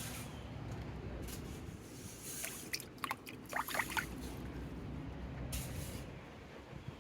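Low rumbling wind noise with water rushing or spraying. A few short, high-pitched chirps come about halfway through.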